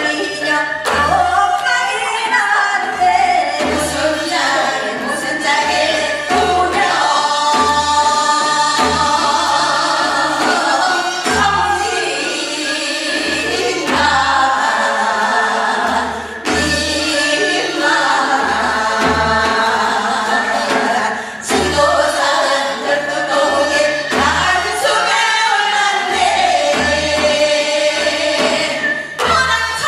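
Gyeonggi hwimori japga, a fast Korean folk song, sung by a group of voices in unison with a quick, wavering line and short breaks for breath, over low drum beats.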